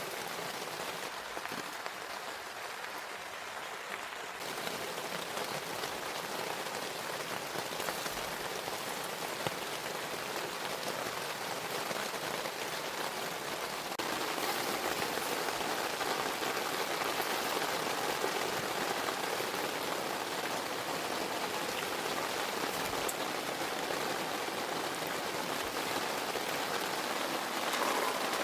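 Steady rain falling, growing a little louder about halfway through.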